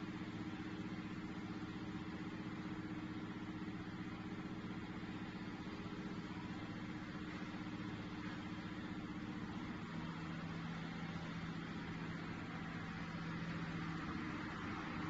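Steady hum of a car engine with road noise. An extra low steady tone comes in about two-thirds of the way through and drops out a few seconds later.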